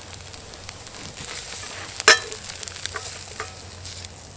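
Egg-soaked bread sizzling in an iron frying pan, with a spoon working in the pan and one sharp metallic clink about two seconds in.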